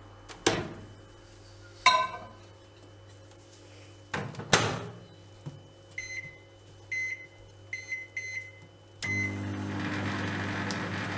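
Microwave oven being loaded and started: knocks of the door and the bowl going in, about six short keypad beeps as the one-minute time is set, then the oven starts running with a steady hum from about nine seconds in.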